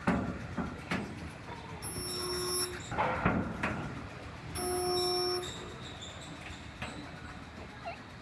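Resistance spot welder firing on the truck's sheet-metal bedside panel: two welds, each a steady electrical hum lasting under a second, with metallic knocks from the tongs clamping on before them.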